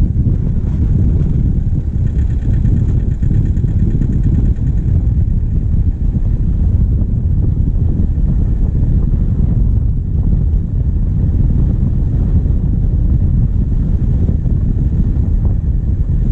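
A vehicle's diesel engine running steadily while driving, a dense low rumble heard close up from the bonnet.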